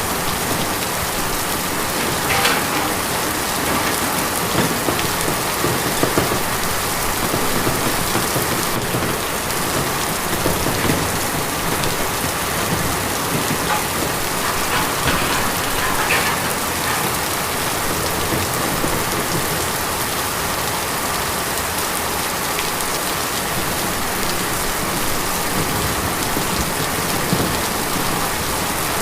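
Steady rain falling on a tin roof, a dense, even patter with occasional heavier drops standing out.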